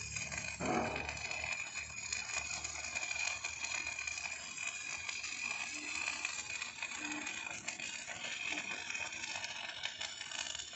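Steady mechanical noise with a constant high whine, and a brief louder knock or rattle about a second in.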